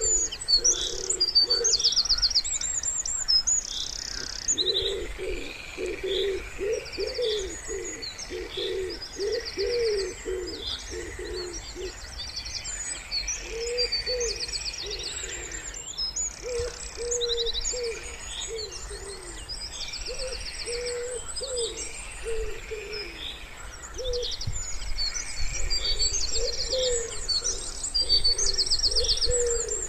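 Wood pigeon cooing in repeated low phrases, with small songbirds singing high, rapid trills and chirps over it throughout.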